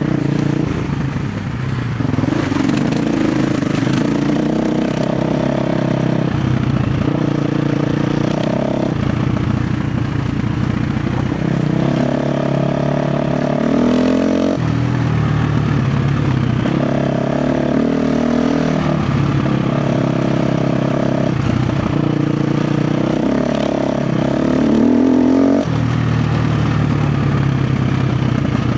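KTM 350 XC-F dirt bike's single-cylinder four-stroke engine running under changing throttle, its revs rising and falling every few seconds. It climbs steadily in pitch shortly before dropping back about three-quarters of the way through.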